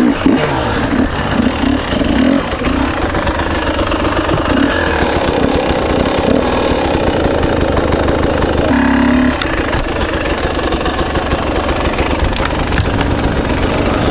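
Husqvarna TE300i two-stroke enduro motorcycle engine running as the bike rides off-road, the revs rising and falling with the throttle, pulsing most in the first few seconds.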